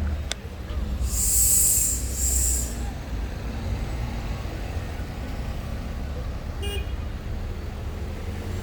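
City street traffic rumbling steadily, with two loud bursts of hiss about a second in, the first longer and louder, and a brief high-pitched toot near the end.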